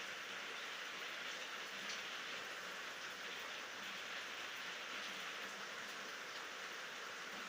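Steady rain falling: an even hiss of many drops, with faint scattered ticks of individual drops landing and no thunder.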